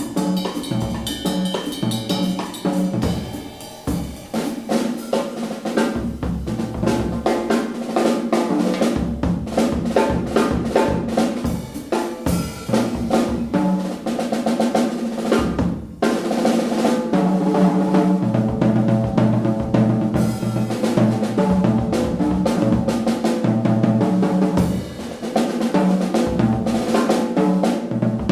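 Jazz drum kit taking a solo: dense snare, bass drum, rimshot and cymbal strokes.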